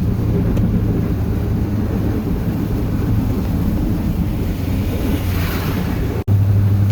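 Chevrolet plow truck's 8.1-litre Vortec big-block V8 running at a steady cruise, with tyre noise and spray hiss from a wet, slushy road. A rush of hiss swells about five seconds in; just after six seconds the sound cuts out for an instant and the engine hum comes back steadier.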